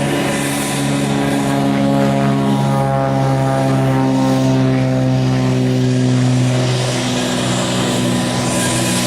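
Propeller airplane engine running steadily: a loud, low hum made of several steady stacked tones, with a hiss on top.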